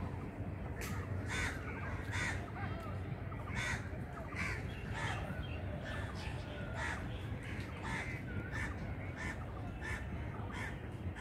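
Harsh bird calls repeating roughly every half second to a second, over a steady low rumble.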